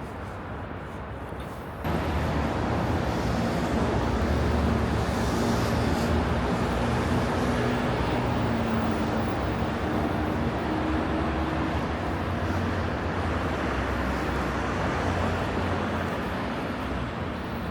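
Road traffic on a city street, with a motor vehicle's engine running close by over steady tyre and road noise. The sound jumps abruptly louder about two seconds in and eases a little near the end.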